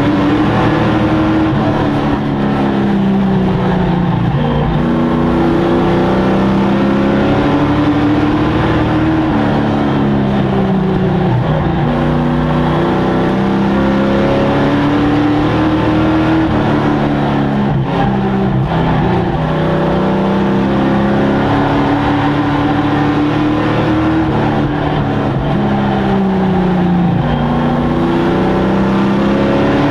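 Racing sport truck engines running hard, their pitch climbing and then dropping back about every seven to eight seconds as the throttle opens and closes around the short oval.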